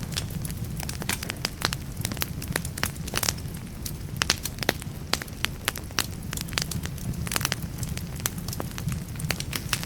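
Wood fire burning in a fireplace: logs crackling and popping at an irregular pace over a steady low rumble of flame.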